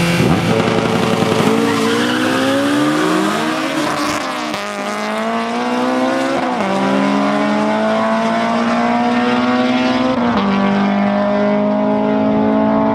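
Two cars launching off the start line of a drag race at full throttle. Their engines climb in pitch through each gear and drop back at every upshift, four times over.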